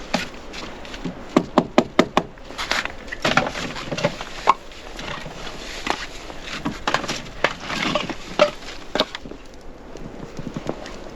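Irregular sharp knocks and taps, several a second at times, with scraping or rustling between them, quieter near the end.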